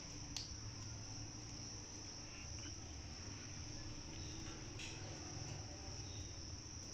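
Crickets trilling steadily in a faint, high, even drone, over a low hum, with a couple of faint clicks.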